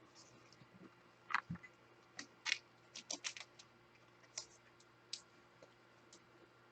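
Faint, scattered clicks and short rustles of trading cards being handled, a dozen or so small taps and slides spread over a few seconds.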